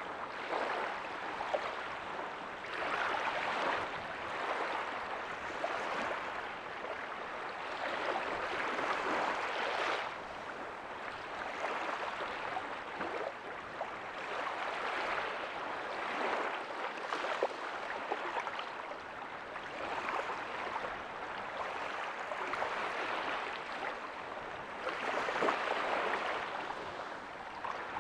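Small ocean waves breaking softly on a beach: a steady wash of surf that swells and eases every few seconds, with the strongest break near the end.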